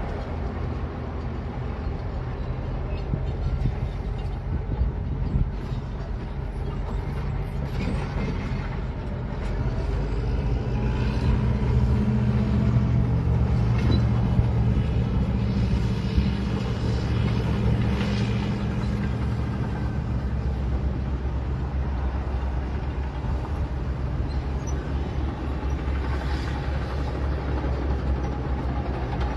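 Engine of heavy equipment running steadily under load, working harder for several seconds in the middle, with a few faint clanks.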